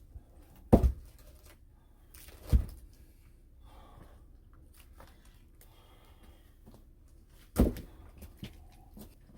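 Three heavy wooden thuds from firewood work, about a second in, near the third second and near the end, each sharp with a brief ring-off, over a low quiet background.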